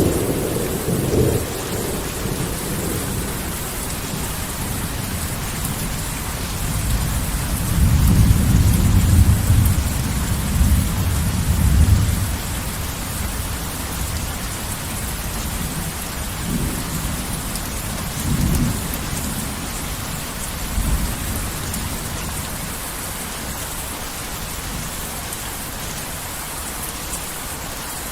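Steady heavy rainfall with thunder: a clap fading as it begins, a long rolling rumble from about 7 to 12 seconds, and a few shorter rumbles between about 16 and 21 seconds, then rain alone.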